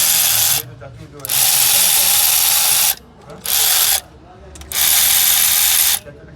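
Pneumatic air ratchet run in four short bursts, each half a second to a second and a half long, spinning bolts in or out.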